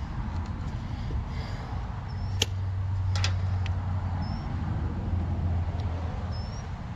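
Two sharp clicks of hand tools at work on the wiring, stripping wire ends for lugs, over a steady low hum, with a faint short high chirp every couple of seconds.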